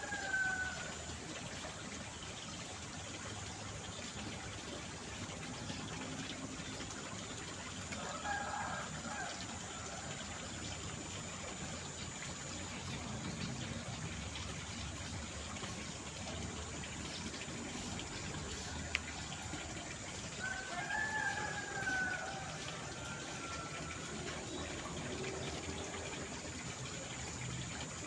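Roosters crowing, with a crow just as the sound begins, another about eight seconds in and a longer one around twenty-one seconds, over a steady wash like running water.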